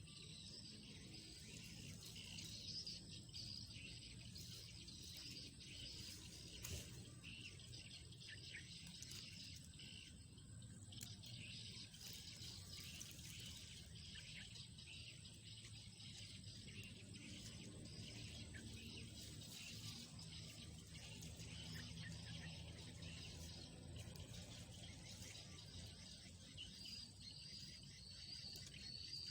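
Faint outdoor ambience: steady insect chirring with occasional bird calls, and a few short clicks or rustles.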